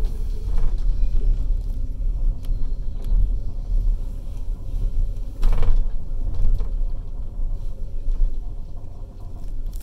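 Low, steady rumble of a passenger train running, heard from on board, with a brief louder surge about five and a half seconds in and the noise easing off near the end.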